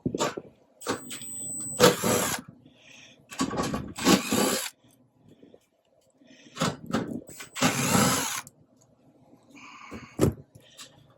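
Power drill driver with a 3/8-inch nut driver running in three main bursts of about a second each, with clicks and clanks of metal between them.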